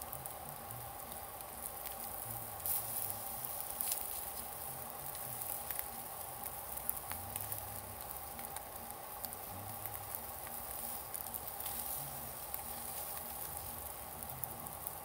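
Yakitori chicken skewers sizzling over a wood campfire, with scattered sharp crackles and pops.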